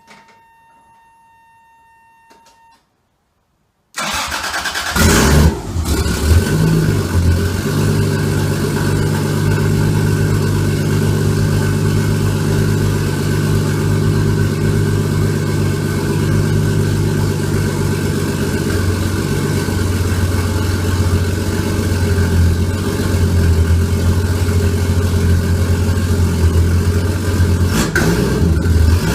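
Toyota 7M-GTE turbocharged straight-six starting for the first time after an engine swap. It catches about four seconds in with a brief rev, then settles into a steady idle, with a quick rev near the end.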